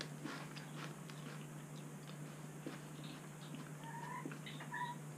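Faint crunching and chewing of crisps, with scattered small clicks and packet rustles over a steady low electrical hum. About four seconds in come a few short, faint high tones.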